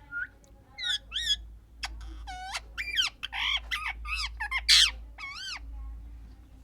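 A female parrot calling: a short chirp, then a quick run of warbling, wavering calls, with one loud harsh squawk near the end.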